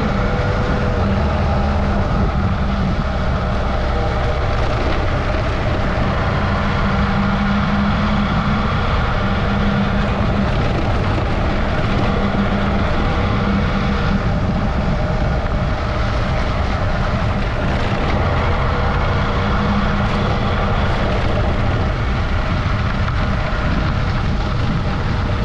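Adventure motorcycle engine running at a steady riding speed, its note easing and picking up a little, under a continuous rush of wind noise.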